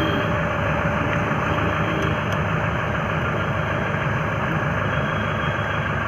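Steady engine-like running noise, like a motor idling close by, at an even level with no distinct knocks or clicks.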